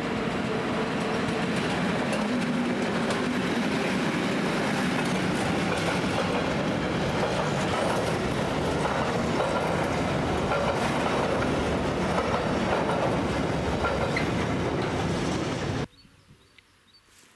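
Freight train of tank wagons passing close, hauled by a class 753.7 diesel locomotive. The locomotive's engine is heard as it goes by, then the wagons rolling past on the rails. The sound cuts off abruptly about 16 seconds in.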